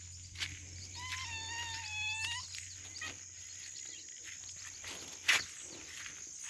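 Rural outdoor ambience with a steady high insect drone. About a second in, an animal gives one long pitched call lasting about a second and a half, and there are a few sharp knocks, the loudest about five seconds in.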